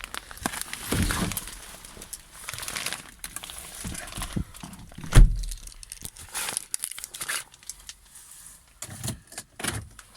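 Irregular crunching and rustling, with one heavy thump about five seconds in.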